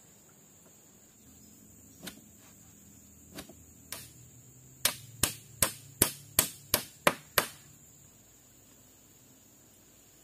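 A run of sharp tool strikes, about three to four a second for two and a half seconds, after a few scattered knocks.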